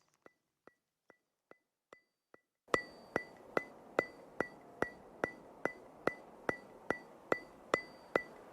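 Electric baby swing running: steady ticking clicks about two and a half a second, each with a short high ring. Faint at first, they get much louder a little under three seconds in.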